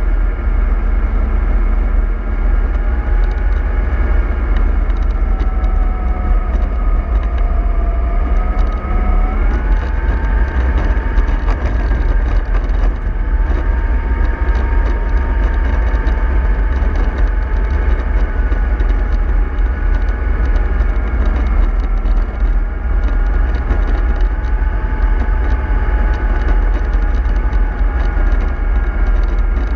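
MAN 24.310 bus under way, its engine and drivetrain giving a steady low rumble with a whine that sinks in pitch and then jumps up about ten seconds in.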